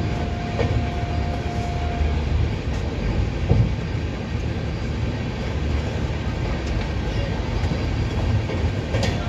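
Double-decker AC chair car coach running at speed, steady rumble of wheels on rail heard from inside the carriage. A faint steady whine stops about two seconds in, and a single knock comes about three and a half seconds in.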